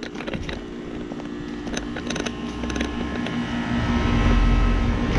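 Residential heat pump outdoor unit running: a steady compressor hum with condenser fan noise, and a low rumble that grows louder near the end.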